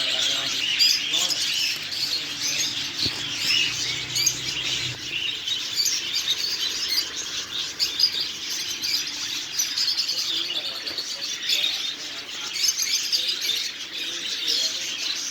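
Many small caged pet birds chirping and twittering together in a dense, continuous chorus of short high-pitched calls.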